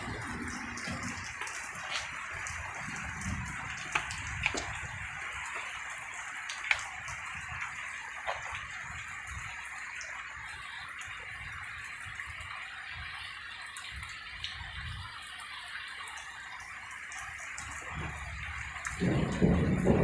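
Steady rain falling during a thunderstorm, a continuous hiss with scattered drips and taps. A louder low rumble comes in near the end.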